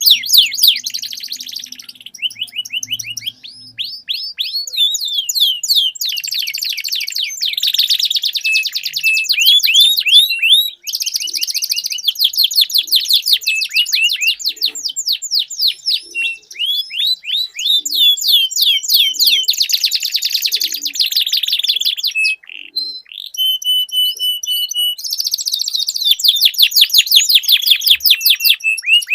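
Domestic canaries singing long rolling trills: fast runs of repeated sweeping notes, changing from one run to the next, with a few slower repeated notes near the end.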